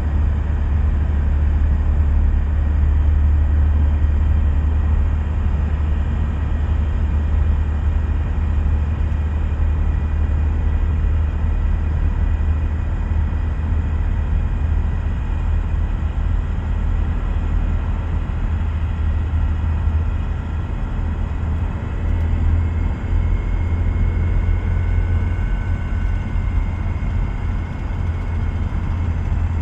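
Car cabin noise at road speed: a steady low drone of engine and tyres, with faint steady whining tones above it, from an M32 six-speed manual gearbox that has a noise problem.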